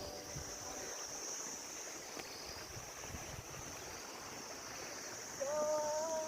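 Steady outdoor hiss like a flowing stream, under a constant high-pitched drone. About five seconds in, a person's voice starts a held, humming note.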